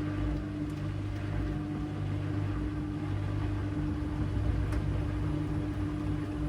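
AEG LR8FL160EX front-loading washing machine running steadily with a constant motor hum, its drum spinning without pause.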